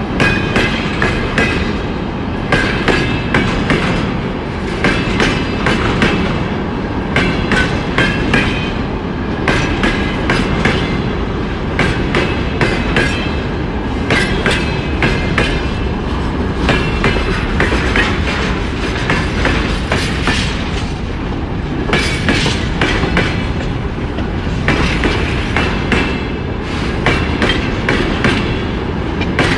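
Freight train wagons rolling past: a steady rumble broken by clusters of clickety-clack as the wheelsets cross rail joints every second or two, with thin high squealing tones from the wheels at times.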